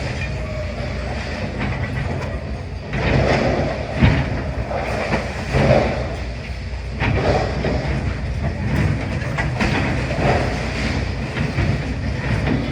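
Demolition excavator working: a steady low diesel rumble with repeated crunching and clattering surges of breaking masonry and debris, and a sharp knock about four seconds in.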